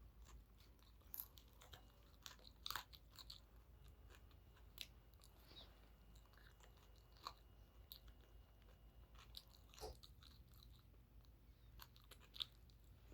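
A person eating: faint chewing with scattered short, crisp crunches of food.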